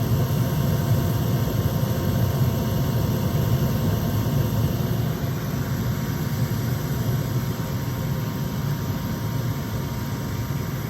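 Gas furnace running with its burners lit: a steady rumble and rush of the burner flames together with the hum of the induced draft fan, the burners firing strongly.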